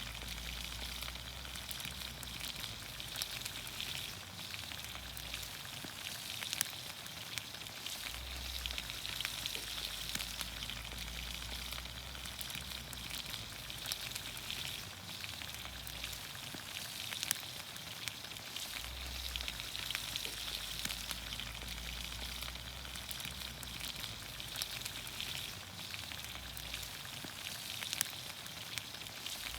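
Vegetables frying in olive oil in a pan over a campfire: a steady sizzling hiss with scattered sharp pops.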